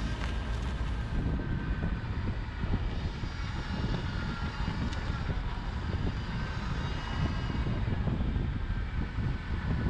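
Wind buffeting and road rumble from a moving SUV, picked up by a GoPro's built-in mic mounted on the outside of the vehicle: a steady, fluctuating low rumble.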